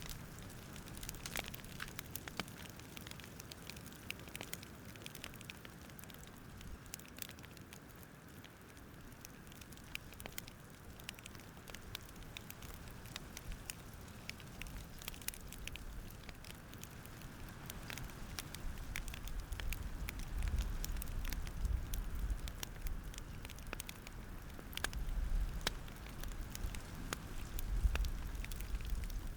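Campfire crackling: irregular sharp pops and snaps over a soft low rumble that swells in the second half.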